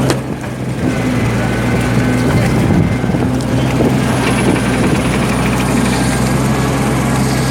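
Heavy tractor-type machine's diesel engine running steadily at a constant speed, with a sharp click at the start.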